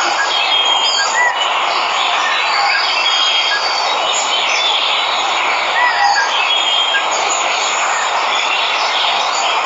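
Steady rushing of a waterfall with birds chirping over it: short high whistled notes and small rising-and-falling chirps come and go every second or two.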